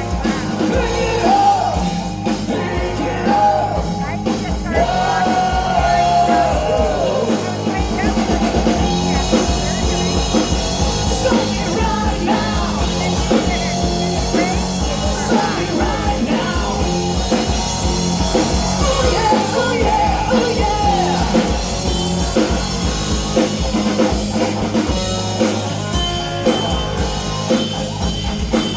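Rock band playing, with a voice singing over drums, bass and guitar.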